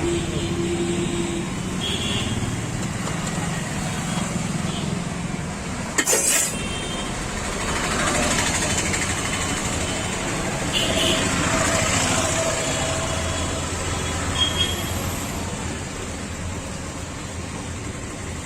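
Busy roadside street noise: vehicles running and passing, with a sharp knock about six seconds in.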